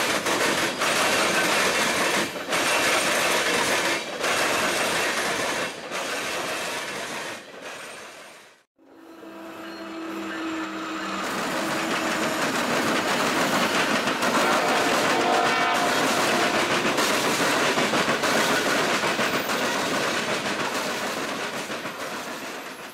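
Freight trains passing at close range: CSX diesel locomotives and cars rolling by with a dense rattle of wheels clicking over the rail joints, then, after a cut about nine seconds in, a Norfolk Southern diesel locomotive running past followed by loaded coal hopper cars, the rolling noise building to a steady rumble.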